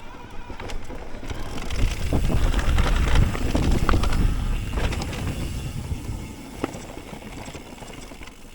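Mountain bike riding over rough, dry trail: a rumble of tyres and wind on the helmet camera that swells for a few seconds, with scattered knocks and rattles from the bike.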